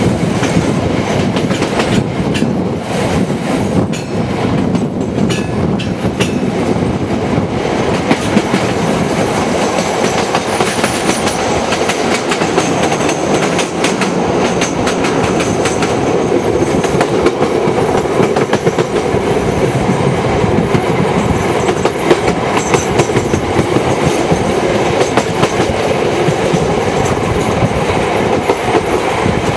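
A passenger train's carriage wheels running on the rails, heard from on board. The running noise is loud and steady, with a constant rapid clatter of clicks from the track.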